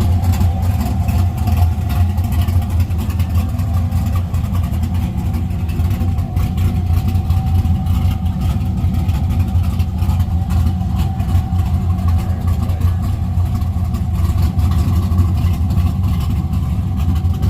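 A car engine idling steadily with a deep, loud exhaust rumble.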